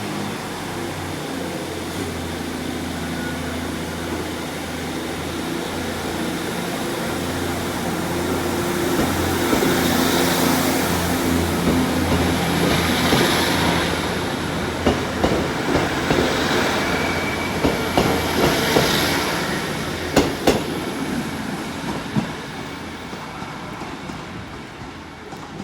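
GWR Turbo diesel multiple unit pulling out of the station: its underfloor diesel engines run under power and grow louder as it passes. From about the middle, the wheels click over rail joints and points, and the sound then fades as the train draws away.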